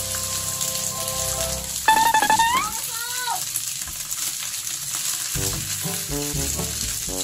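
Cooked rice sizzling as it goes into a hot wok, a steady hiss under background music. About two seconds in, a loud short pitched sound with sliding tones stands out over the rest.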